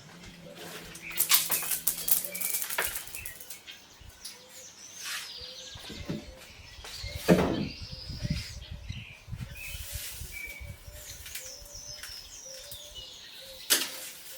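Small birds chirping in the background, broken by bursts of close rustling and sharp knocks, the loudest about halfway through.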